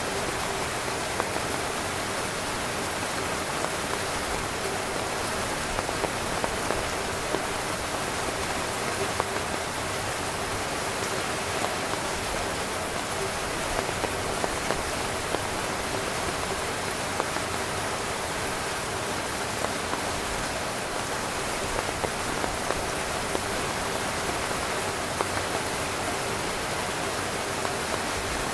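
Heavy rain pattering on a tent's fabric: a steady, dense hiss with many distinct drop taps throughout.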